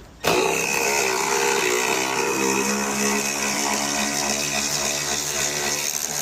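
Power tool switched on and run hard, its pitch dropping over the first couple of seconds as it loads up and then holding steady, with a strong high hiss. It is being used to force open a car part that would not open.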